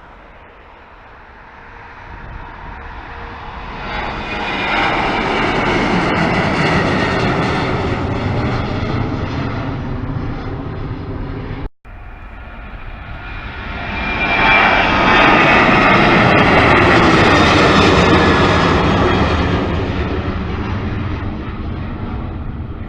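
Two airliner passes, split by an abrupt cut about 12 seconds in. Each time the engine noise builds over a few seconds to a loud peak with a falling whine, then slowly fades.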